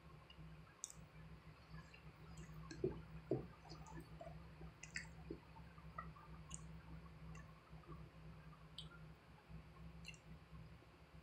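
Near silence with faint, scattered small clicks and taps over a low steady hum.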